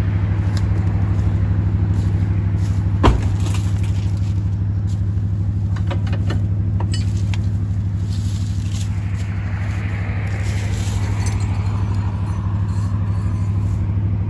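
Vehicle engine idling steadily with an even low hum, and one sharp knock about three seconds in.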